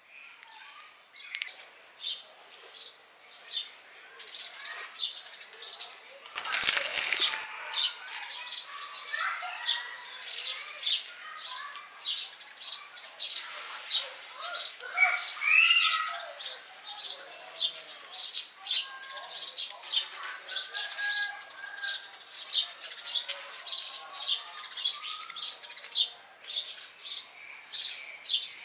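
Small birds chirping, short high chirps repeating a couple of times a second, with a few lower warbling calls in the middle. About six and a half seconds in, a loud rushing noise lasts about a second.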